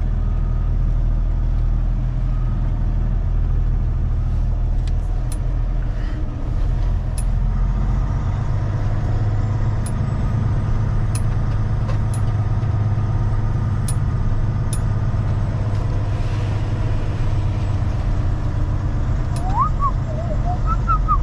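Truck engine running steadily while driving, its note shifting a couple of times in the first eight seconds. A few short squeaky chirps sound near the end.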